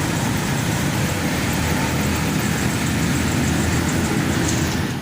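Heavy truck engine running steadily with traffic and road noise, cutting off abruptly right at the end.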